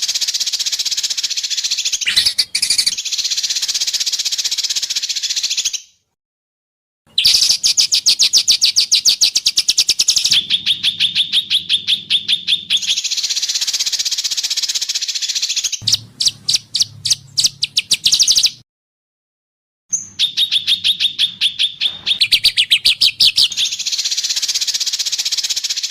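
Songbird song from a bird-training recording: long, very fast trills and rapid runs of repeated high notes, in three spliced segments with a sudden second of silence between them, near 6 seconds and again near 19 seconds.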